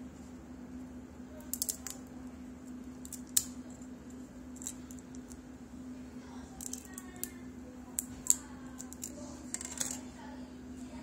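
Scattered small clicks and taps of plastic mobile-phone parts being handled and fitted, over a steady low hum. The clicks come singly and in short clusters, the sharpest about a third of the way in and again about three quarters of the way in.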